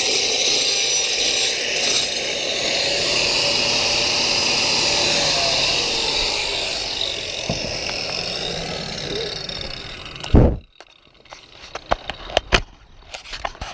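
Handheld power cutter grinding a flashing groove into chimney masonry with a steady, loud noise. It eases off and stops about ten seconds in with a knock, followed by a few light clicks and taps.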